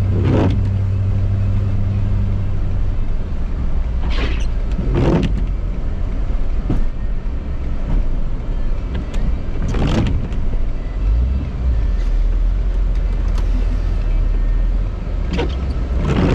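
A Ford F-350's 6.7 L Powerstroke V8 turbo-diesel running steadily, with a low hum that drops to a deeper rumble about two and a half seconds in. Several brief swishing sweeps come over it at uneven gaps.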